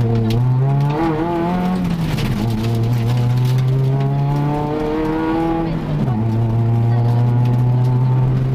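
Volkswagen Golf 2 GTI's four-cylinder engine heard from inside the cabin, accelerating hard from the stage start. The pitch climbs through each gear and drops back at the upshifts, about three times.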